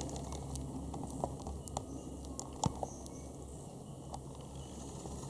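Aircraft flying overhead, a distant low steady drone that fades after the middle, with scattered sharp small clicks and ticks over it, the loudest a little past halfway.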